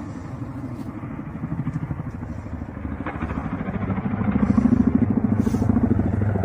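Ka-52 attack helicopter's rotors and engines running with a fast, even beat, growing louder about four seconds in.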